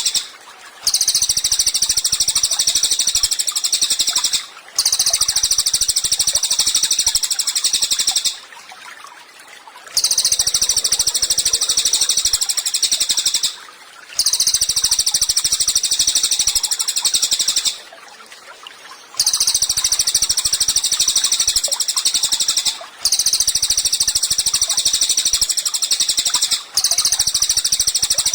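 Cililin songbird singing a rapid, high-pitched trill in long bouts of several seconds each, broken by short pauses about seven times.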